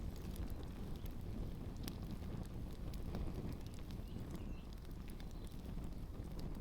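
Campfire burning a pair of shoes: a steady low rumble with scattered small crackles and pops throughout, and wind rumbling on the microphone.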